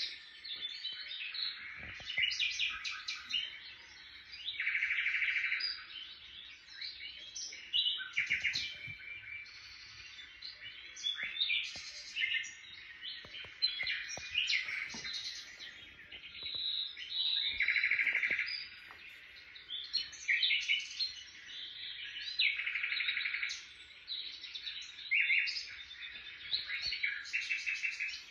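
Songbirds chirping and trilling without pause, a busy run of quick chirps broken every few seconds by a longer buzzy trill.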